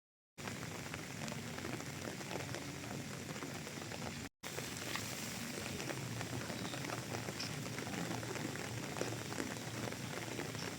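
Rain falling steadily, a dense patter of drops. The sound drops out briefly about four seconds in.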